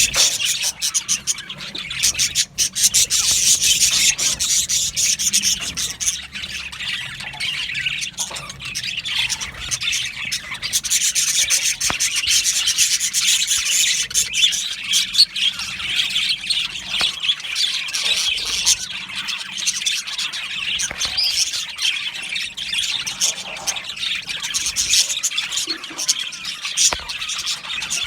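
A colony of budgerigars chattering and chirping all at once: a dense, continuous warble of short high chirps and calls.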